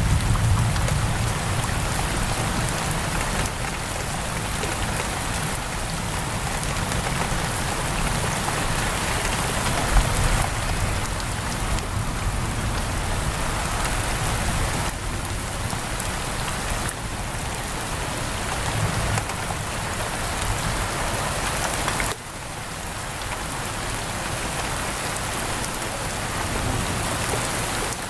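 Heavy rain pouring down in a steady, dense hiss, with some low rumbling underneath; the rain drops suddenly in loudness about 22 seconds in.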